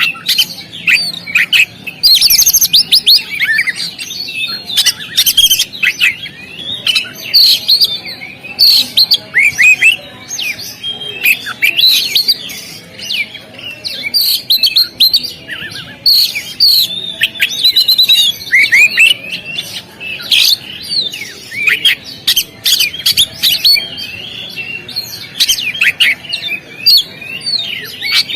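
Oriental magpie-robin (kacer) singing a loud, varied song of whistles, slurred notes and quick chirps in rapid phrases, with only brief pauses.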